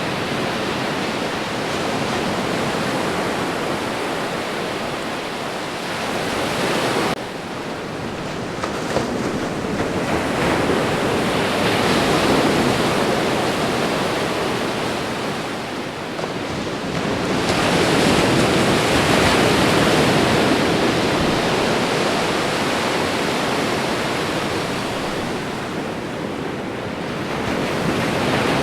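Ocean surf: waves breaking and washing in a continuous rushing noise that swells and eases every several seconds. It is loudest about twelve and nineteen seconds in, with a sudden dip about seven seconds in.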